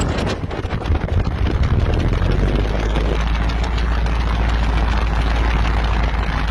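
Helicopter running close by: steady rotor and engine noise with a heavy low rumble that grows stronger about two seconds in.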